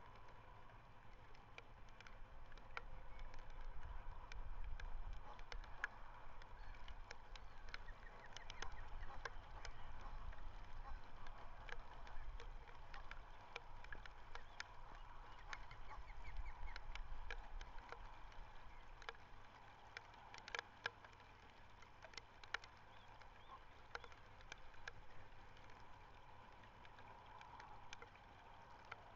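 Outdoor ambience at an osprey nest over open water: gusts of wind rumbling on the microphone, with scattered sharp clicks and faint, distant waterfowl calls.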